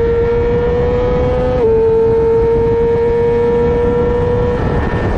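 Middleweight superbike engine held at high revs under wind rush, its pitch climbing slightly. About one and a half seconds in it snaps down a step, as at a quick upshift, then holds steady and eases off near the end.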